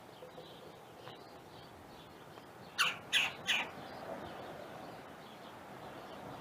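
A bird calling three times in quick succession about three seconds in.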